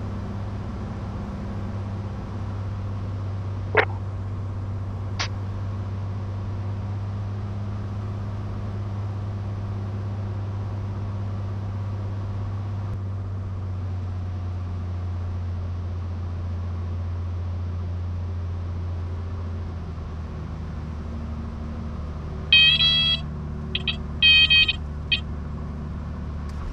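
Cessna 182 Skylane's engine and propeller droning steadily through the intercom recording, easing slightly about 20 seconds in as power comes off for landing. Near the end, a high-pitched warning tone sounds in several short blasts, typical of the Cessna stall warning horn going off in the landing flare.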